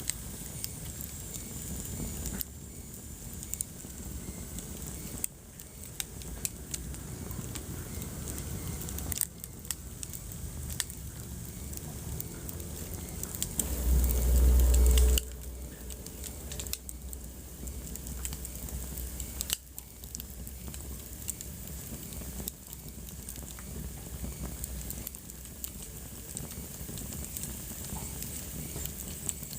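Wood fire in a fireplace crackling, with irregular sharp pops and snaps over a low rumble of the flames. About halfway through, a louder deep rumble lasts a little over a second.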